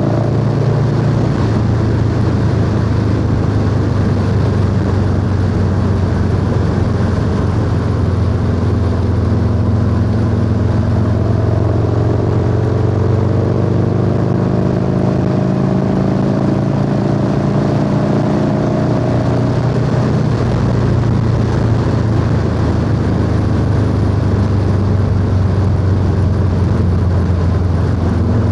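Harley-Davidson Low Rider S V-twin with a 2-into-1 exhaust running steadily on the road. The engine note shifts about a second in, then climbs slowly in pitch through the middle as the bike gathers speed.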